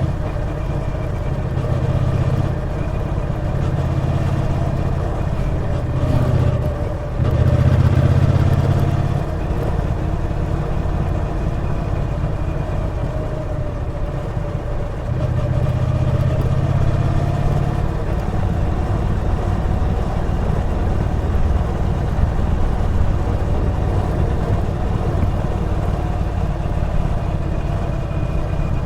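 Triumph Bonneville T120's 1200 cc parallel-twin engine running while the bike is ridden, its pitch drifting up and down with the throttle and the low rumble swelling and easing in stretches. It dips briefly about seven seconds in, then pulls again.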